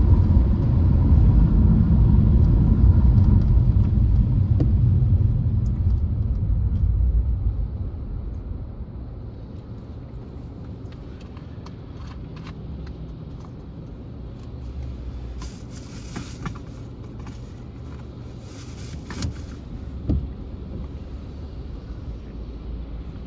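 A deep rumble, loud for the first several seconds, then dying away over about two seconds to a steady, quieter low rumble. A few brief hisses come later on.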